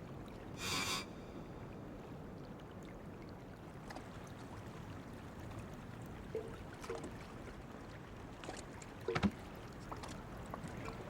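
Water lapping and splashing quietly against a small raft on the open sea, with a short rush of water about a second in and a few light knocks and splashes later.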